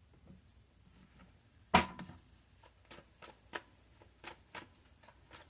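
A deck of tarot cards being shuffled by hand. After a quiet second or so there is one sharp snap, followed by quick card flicks and taps, two or three a second.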